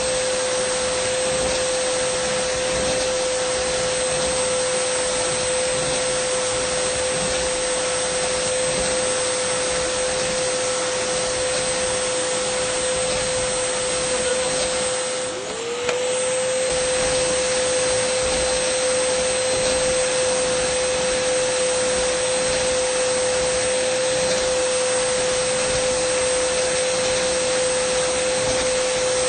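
Dyson vacuum cleaner running with a steady whine over a rushing hiss. About halfway through, the pitch and level dip briefly, then climb back to the same steady whine.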